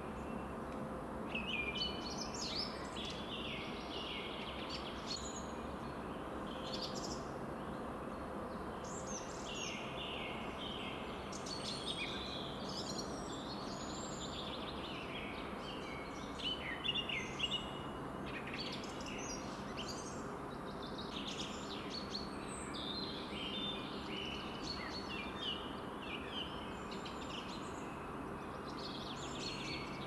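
Songbirds chirping and singing, many short calls through the whole stretch, over a steady hiss of wind in the trees.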